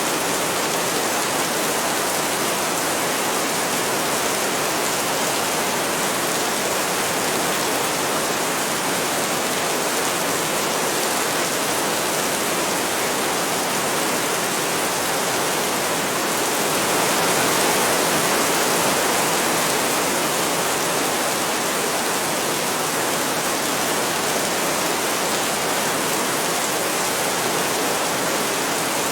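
Heavy rain falling steadily as a dense, even hiss, swelling a little about two-thirds of the way through.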